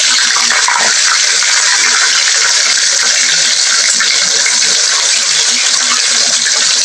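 Burger steak patties frying in hot oil in a wok: a loud, steady sizzle.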